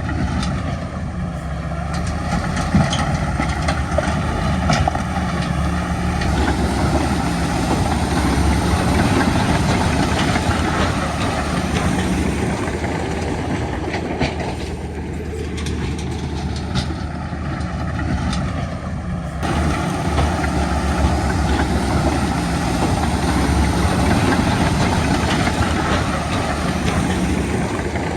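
Bulldozer's diesel engine running steadily, with rattling clanks from its steel crawler tracks.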